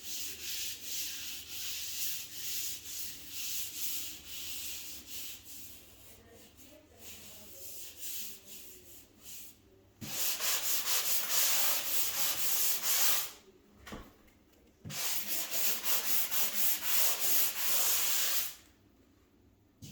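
Sanding sponge rubbed back and forth over a dried joint-compound skim-coat patch on a ceiling, in quick scratchy strokes. The strokes get lighter for a few seconds, then come back hard about halfway through, pause briefly, resume, and stop shortly before the end.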